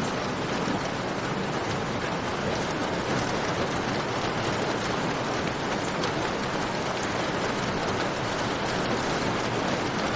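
Steady heavy rain with scattered sharp ticks and crackles, cave rain layered with a crackling campfire.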